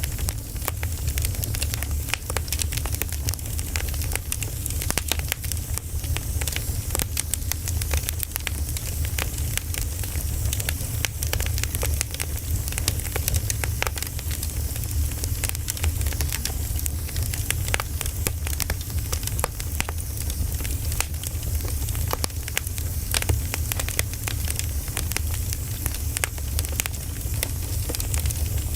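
Wood fire burning, with dense irregular crackles and pops over a steady low rumble.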